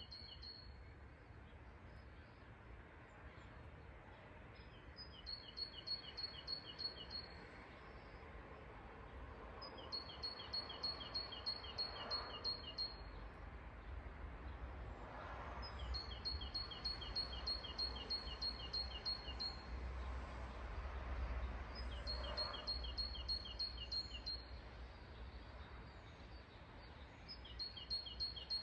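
A songbird singing the same short, fast trill five times, each burst of rapid high notes lasting about two seconds and coming every five to six seconds, over a low steady rumble.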